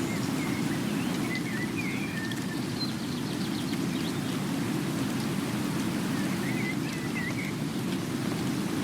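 Steady rain, a constant hiss with its weight in the low range. Two short runs of faint high chirps come through it, near the start and again about seven seconds in.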